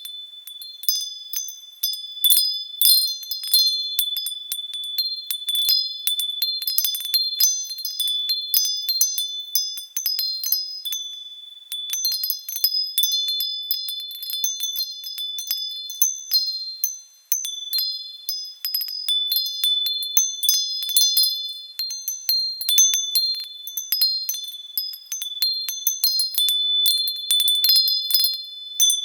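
Wind chimes stirred by the wind, ringing in irregular clusters of strikes whose high, clear tones hang on and overlap, with a brief lull a little past halfway.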